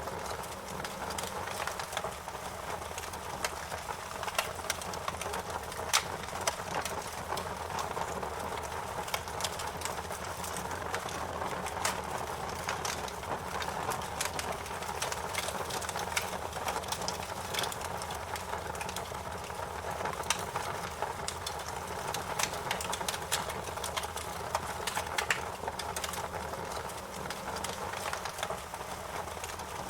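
Wood fire in a fireplace crackling: irregular sharp pops and snaps, several a second, over a steady rushing hiss of the flames.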